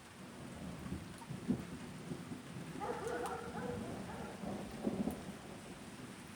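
Thunder rolling for several seconds, with a sharper crack about a second and a half in and another near five seconds, over the steady hiss of rain.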